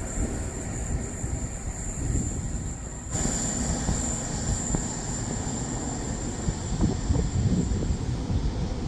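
Train running past on the line, a steady rumble with a thin high-pitched whine or squeal that fades out near the end.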